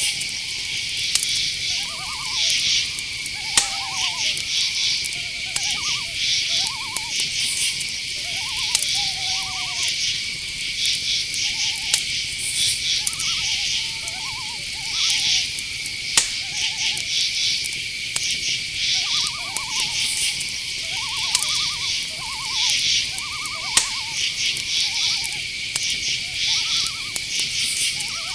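Night-forest insect chorus: crickets chirping in rhythmic pulses over a steady high-pitched drone. Many short, pitched calls come repeatedly through it, with a few sharp clicks.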